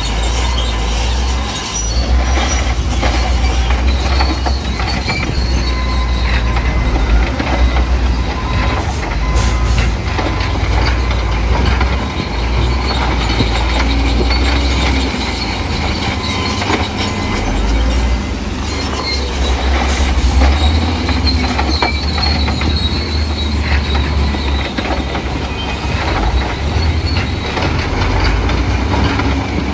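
Crawler bulldozer at work: its diesel engine runs with a deep, steady rumble, over the clanking of its steel tracks.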